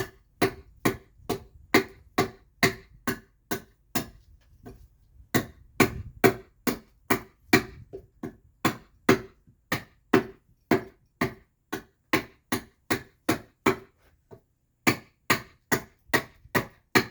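Hand adze chopping into alderwood to hollow out the back of a carved mask: a steady run of sharp strikes about two a second, with a short break about four seconds in and another near the end.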